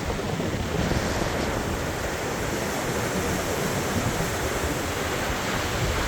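Heavy storm surf breaking and strong hurricane wind buffeting the microphone, a steady rushing noise.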